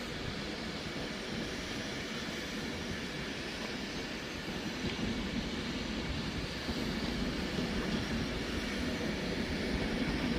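Train running at a station platform: a steady, even noise that grows slightly louder over the second half.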